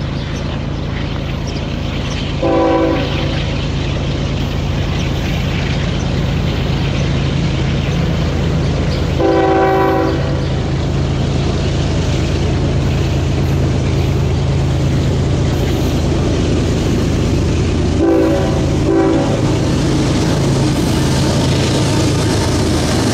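Union Pacific diesel freight locomotives running under power with a steady low engine drone as the train approaches and passes. The locomotive's air horn sounds four times: a short blast about 2.5 s in, a longer one about 9 s in, and two short blasts close together around 18 s. Wheels click over the rail joints as the locomotives go by near the end.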